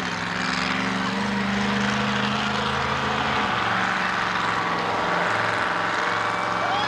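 Monster truck engines running hard under throttle, a loud steady drone whose pitch drops a little about three and a half seconds in.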